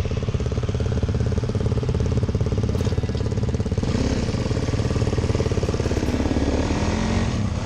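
Dirt bike engine running, a fast, even beat of firing pulses.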